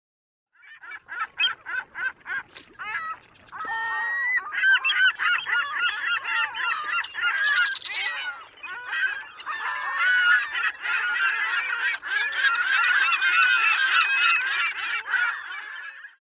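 A flock of birds calling: a few separate calls at first, then a dense, overlapping chorus of short, pitched calls that cuts off suddenly near the end.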